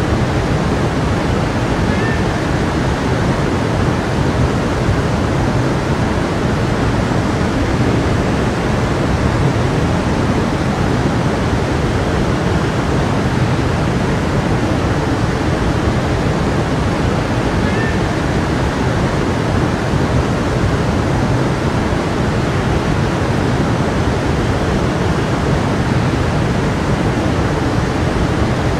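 Stream flowing, a steady rushing of water that does not change.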